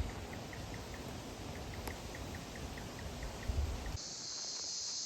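Outdoor bush ambience: a steady rushing noise with low wind rumbles on the microphone and a faint high chirp repeating about four times a second. About four seconds in it cuts abruptly to a steady, loud, high-pitched insect drone.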